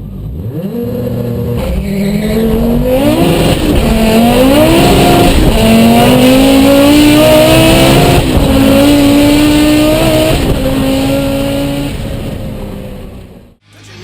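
Tuned turbocharged Audi S2 inline-five accelerating hard from a launch-control start. It climbs through the gears, the pitch rising and then dropping back at each of about six upshifts, and fades away before cutting off suddenly near the end.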